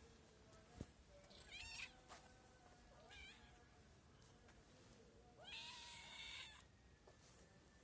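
Stray cats meowing faintly, three calls with the last one the longest, as hungry cats begging for food. A sharp click comes about a second in.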